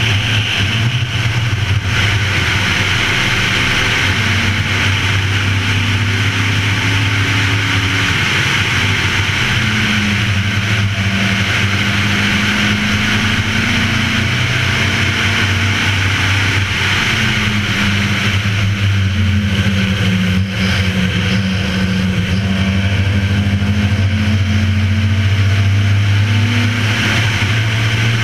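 Race car engine running hard at speed on a circuit, its note rising and falling with the throttle, under a steady rush of wind noise on an outside-mounted camera.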